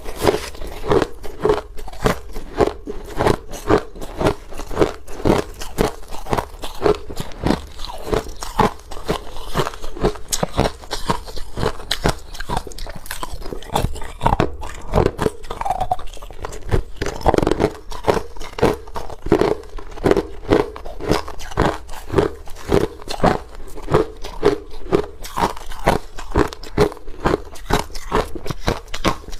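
A person biting and chewing ice: a steady run of sharp, crunching bites, about two or three a second.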